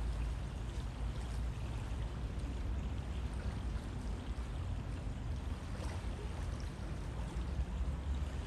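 A river flowing steadily, its water making an even rushing noise with a deep low rumble beneath.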